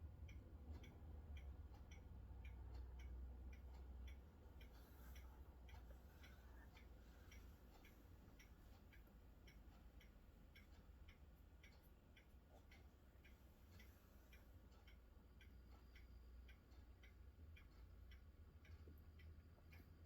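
Faint, steady ticking, about two ticks a second, over a low rumble that eases after the first few seconds and swells again near the end.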